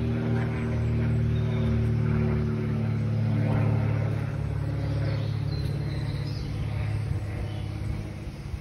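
An engine running steadily with a low drone, fading near the end.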